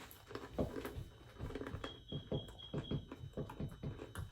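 Chewing an Oreo cookie close to the microphone: a run of short, soft chewing sounds, about three a second.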